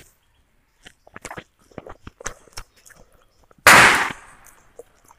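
Close-miked chewing with small wet clicks and crunches of broiler chicken eaten by hand, then, about three and a half seconds in, one loud sudden burst that fades over about half a second and is the loudest sound.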